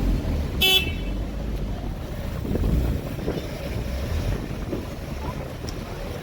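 A single short car horn toot about half a second in, over the low rumble of cars driving slowly past.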